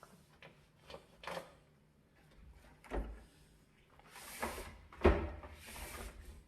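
Kitchen cleaning handling sounds: a few knocks and clunks, the heaviest a low thud about five seconds in, with short swishes between them.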